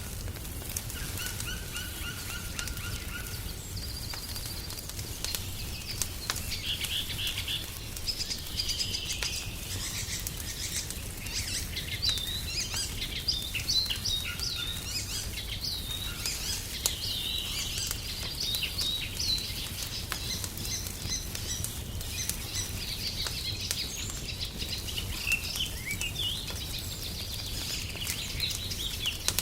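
Wood fire crackling in a fireplace, with scattered small pops and clicks, while songbirds chirp and twitter over it in quick, short calls, busiest in the middle.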